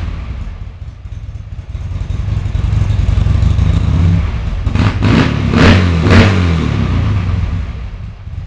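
Buell XB12's air-cooled V-twin engine running at idle, building slightly, then blipped about four times in quick succession around the middle. After the blips it settles back down.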